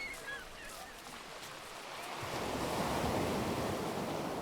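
A wave washing up on the shore, swelling about two seconds in, peaking about a second later, then slowly easing. A few faint bird chirps at the start.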